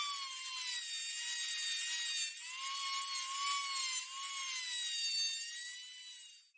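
A small high-speed power tool whining steadily, its pitch dipping and recovering as it is loaded against the work, then cutting off near the end.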